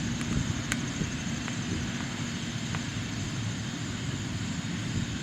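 Steady low rumble of jet aircraft engines, from a landed jet rolling out on the runway.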